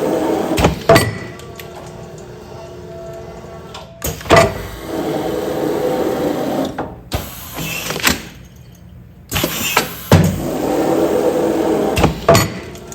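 Commercial food-container sealing machine working through repeated sealing cycles: a stretch of machine running noise, then sharp clunks, repeating about every six seconds.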